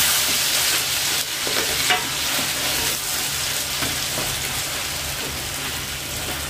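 Wet blended chili-and-shallot spice paste sizzling in hot oil in a steel wok as it is tipped in from a blender jar and stirred with a spatula, with light scrapes of the spatula on the pan. The sizzle is loudest at first and slowly dies down.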